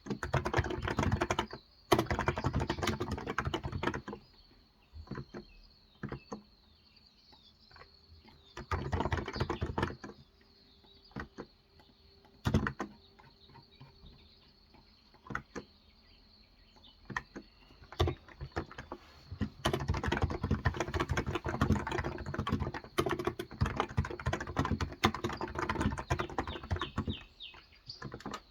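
Typing on a Cox Endeavor electrostatic capacitive (Topre-style) tenkeyless keyboard with 35 g switches. The keys come in quick bursts at the start, around nine seconds in and from about twenty seconds in, with single keystrokes in the gaps between.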